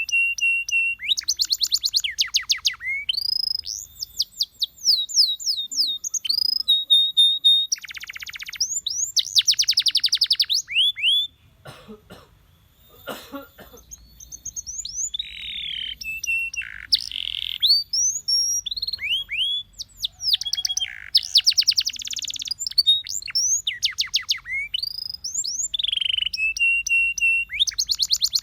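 Domestic canary singing a long song of rapid trills, each a fast run of repeated down-slurred notes, mixed with held whistled notes. The song breaks off briefly near the middle, then resumes.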